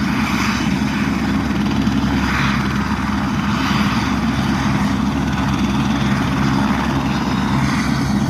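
Helicopter running steadily: a constant low drone from its engine and rotor, with a hiss above it.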